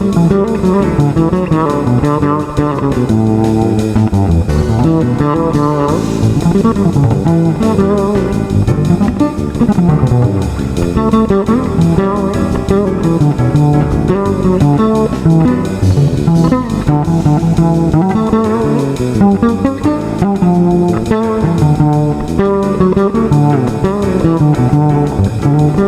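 Fretless electric bass playing a continuous melodic line of plucked notes.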